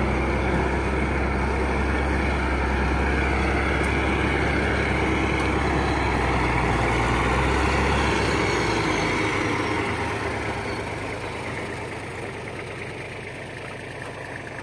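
Heavy machinery's diesel engine running with a strong, steady low rumble, which dies down over the last several seconds.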